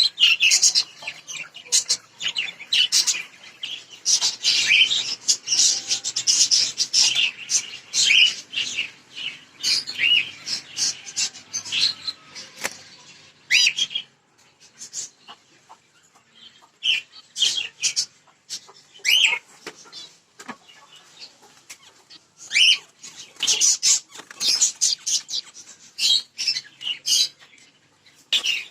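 A flock of caged pet birds, lovebirds and finches, chirping and chattering with many shrill overlapping calls. The chatter thins out about halfway through, then grows busy again near the end.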